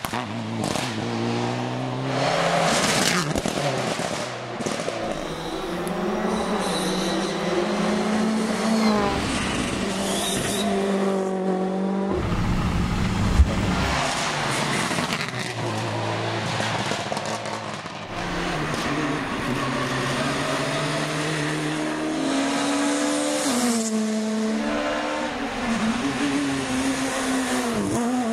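Rally cars running hard on a test stage, engines revving up and dropping back through repeated gear changes. One short sharp bang about halfway through stands out above the engine noise.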